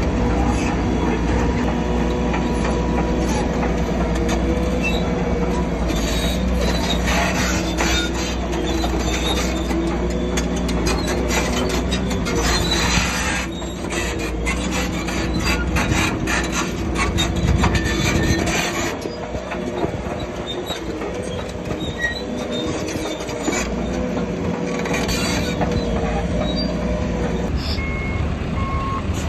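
Bulldozer working: its diesel engine runs steadily under load while the steel tracks squeal and clank. A reversing alarm starts beeping near the end.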